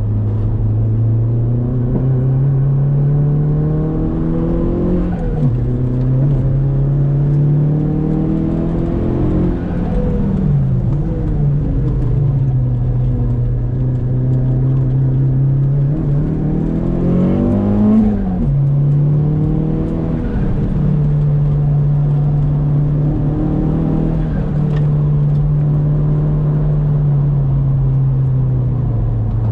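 Saab 9-3 Aero's turbocharged four-cylinder engine heard from inside the cabin while driven hard, the engine note climbing under acceleration and dropping back at gear changes and braking, several times over.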